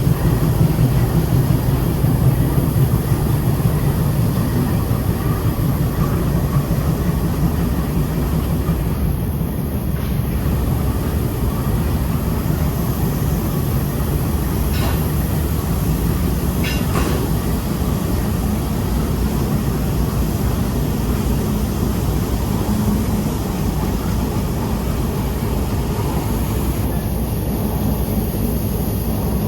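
Train running along the track: a steady, low rumble of wheels on rails that carries on without a break, a little louder in the first few seconds.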